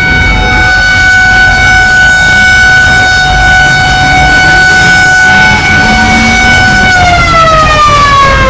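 A siren holding one steady pitch for about seven seconds, then winding down in pitch near the end, over a low rumble.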